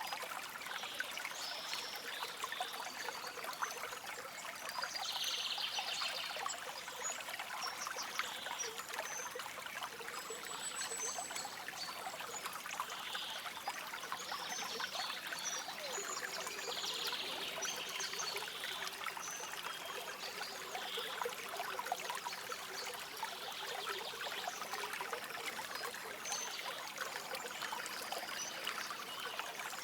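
Shallow stream trickling and splashing steadily over stones, with short bird calls now and then throughout.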